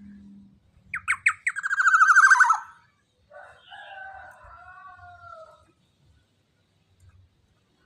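Young black-naped oriole (kepodang) calling. Two short sharp notes come about a second in, then a loud, harsh rasping call made of rapid strokes that falls in pitch. A fainter, longer call of drawn-out whistled notes gliding slightly downward follows.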